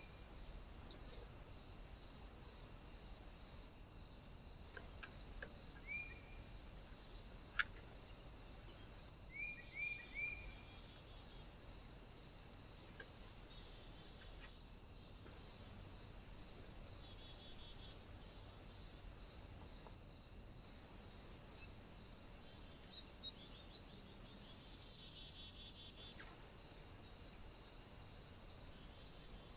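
Small birds at a feeder giving short, upward-sliding chirps: one about six seconds in and a quick run of three a few seconds later, over a steady high hiss. A single sharp click, the loudest sound, comes between them.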